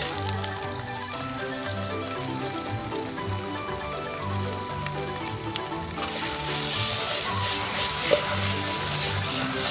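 Food sizzling as it fries in a hot pan, the sizzle growing louder about six seconds in, with background music playing under it.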